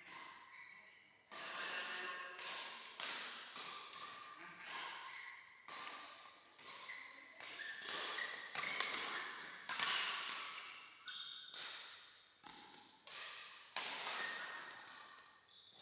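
Badminton rackets striking a shuttlecock in a fast doubles rally, roughly one to two sharp hits a second, each ringing briefly in the hall. Short high squeaks of court shoes sound between the hits.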